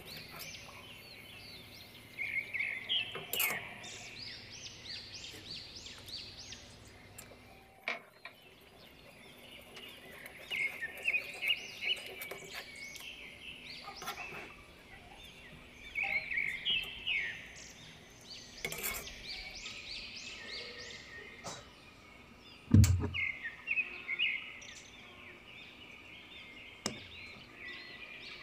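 Small birds chirping in repeated quick bursts, with a single dull thump a little past twenty seconds in.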